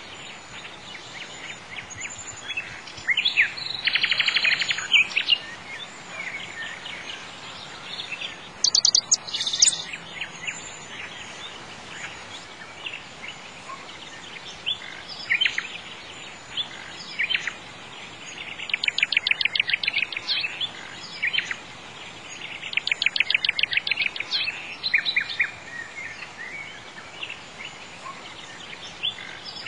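Birds chirping and singing, with several fast trills, the clearest about 3, 19 and 23 seconds in, over a steady hiss.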